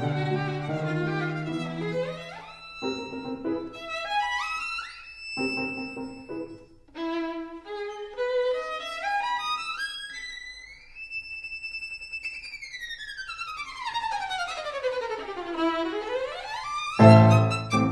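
Solo violin music: quick runs of notes climbing upward, then a slide up to a held high note and a long, slow slide back down, ending in a loud low chord near the end.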